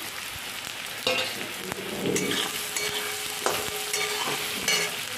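Potatoes, tomato and onion with freshly added ground spices sizzling in hot oil in a metal kadai, while a spatula stirs them with several sharp scrapes against the pan.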